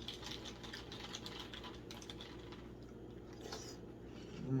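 Faint, irregular crunching clicks of someone chewing a mouthful of Reese's Puffs cereal.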